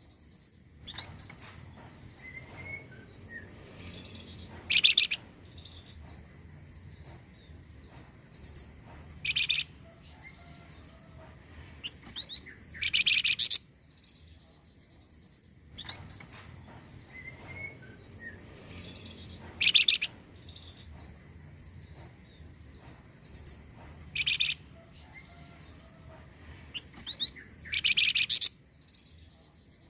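Calls of the bird known in Indonesian bird-keeping as the flamboyan, played as a looped recording for stimulating caged birds to sing. Loud, high-pitched chirp bursts come every few seconds with softer twittering between them, and the whole sequence repeats about every 15 seconds.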